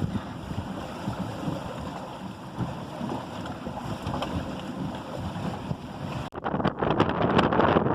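Wind and water rushing past a small sailboat under way, a steady noisy hiss. About six seconds in it breaks off abruptly and gives way to louder wind buffeting the microphone.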